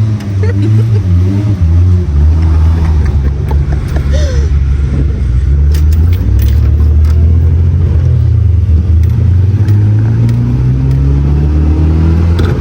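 Mini truck's small engine running under way, loud and steady, its pitch climbing in the last few seconds as it speeds up.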